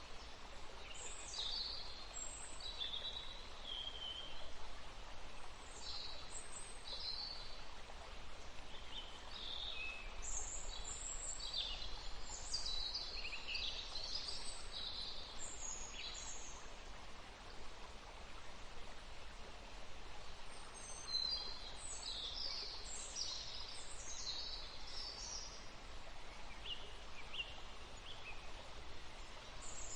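Small songbirds chirping and calling in many short, high notes, busiest in two spells in the middle and latter part, over a steady background hiss.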